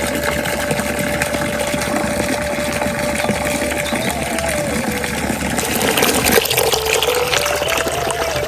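Steady rush of running water, with a thin held tone that steps up and down in pitch over it. About six seconds in, the deeper part of the rushing drops away.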